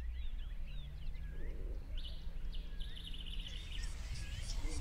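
Birds calling with short rising and falling chirps and a brief trill about two seconds in, over a low steady background rumble.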